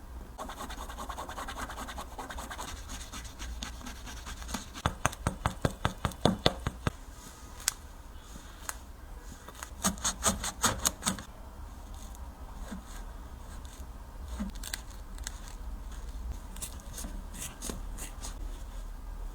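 Scratching, scraping and cutting at a Nike PG 6 basketball shoe as it is taken apart, with a run of quick sharp clicks about five seconds in and another short run near the middle.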